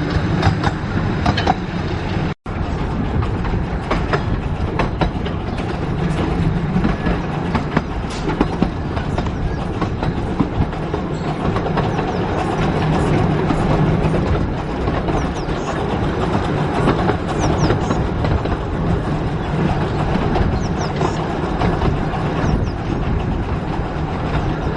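15-inch-gauge narrow-gauge train running along the line, with a steady rumble and wheels clattering over the rail joints. The sound cuts out for an instant about two seconds in.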